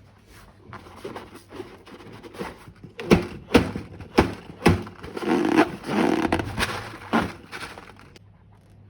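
Close-up handling sounds of slime-making materials: a run of sharp clicks about half a second apart, then a stretch of squishy crackling, and one more click near the end.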